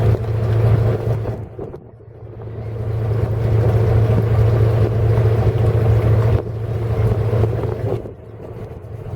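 Twin Volvo diesel engines of a motor yacht idling with a steady low hum, under a rushing noise that dips about two seconds in and again near the end.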